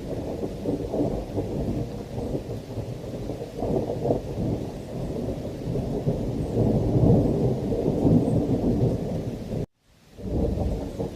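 Thunderstorm recording: a continuous rumble of rolling thunder over heavy rain, swelling loudest about seven seconds in. The sound cuts out abruptly for a moment near the end, then resumes.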